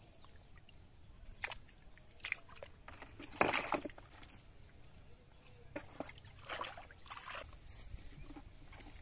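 Water sloshing and splashing in short, irregular strokes, the loudest about three and a half seconds in.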